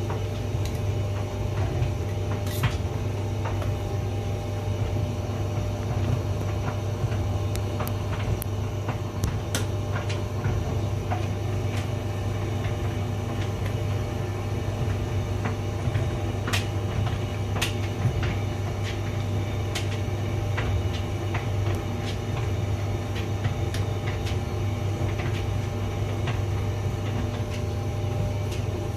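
Hotpoint vented tumble dryer running: a steady motor and fan hum, with light clicks and knocks scattered irregularly as the load tumbles in the drum.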